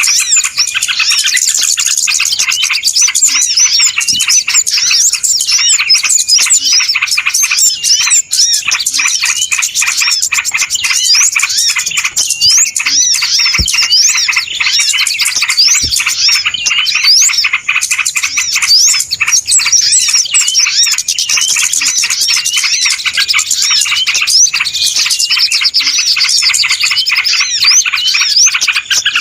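Loud, dense chorus of many small birds chirping and twittering over one another without a break: a noisy-flock bird-lure recording.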